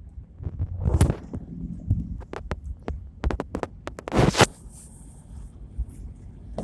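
Low rumble inside a vehicle driving on a snowy road, with scattered irregular knocks and clicks and two brief rushing noises, about a second in and about four seconds in.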